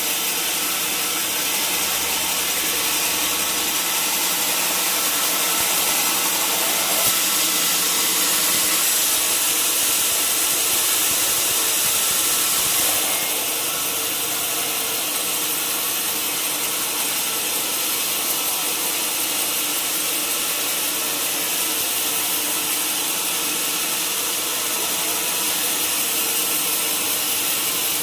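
Sawmill machinery cutting wood: a steady, noisy machine run that grows slightly louder from about six seconds in and eases back a little after about thirteen seconds.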